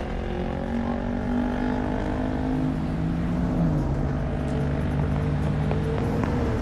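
Car engines running in slow traffic, with a steady hum of several tones; one engine's pitch drops a little past halfway through.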